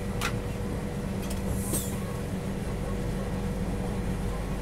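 Steady low rumble of the Tejas Rajdhani Express running at speed, heard from inside its closed air-conditioned 3AC coach while it passes alongside another train. A faint steady hum sits under it, and a few light clicks come through.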